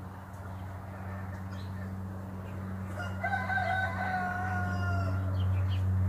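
A single long, drawn-out bird call lasting about two seconds, starting about halfway through, over a steady low hum that grows louder.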